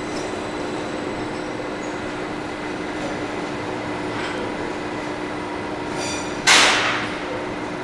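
Steady hum of railway machinery with a sudden burst of hissing air about six and a half seconds in, fading within about half a second.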